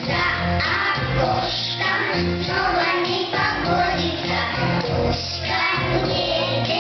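A song with singing voices over instrumental accompaniment with a steady bass line.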